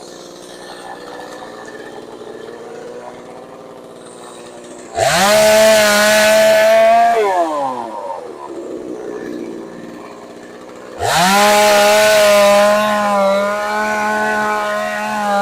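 Two-stroke chainsaw idling, then revved to full throttle twice: about five seconds in for a couple of seconds before dropping back to idle, and again about eleven seconds in, held steady. The pitch stays level at full throttle, as when the saw runs without cutting.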